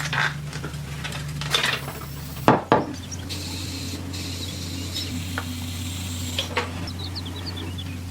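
Metal pieces clinking and scraping as they are handled, with two sharp knocks close together about two and a half seconds in, over a steady low hum.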